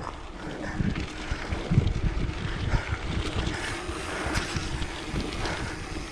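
Headwind buffeting the microphone of a camera on a moving mountain bike, in irregular gusts, with a faint steady hum of tyres rolling on a dirt road.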